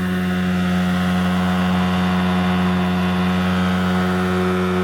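Boat's outboard motor running steadily at constant speed, holding one even pitch.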